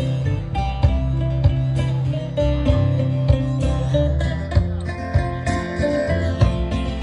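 Live country band playing an instrumental passage: guitar over a steady bass line with regular percussive hits.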